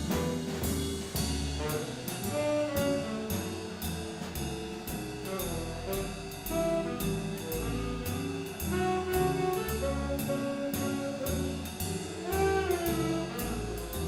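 Live swing band playing an instrumental chorus: saxophones and brass carry the tune over walking upright bass and drums keeping a steady beat.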